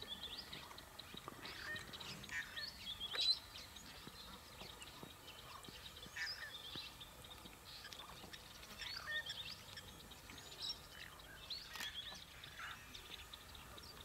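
Wild birds calling in short, scattered chirps, one louder about three seconds in.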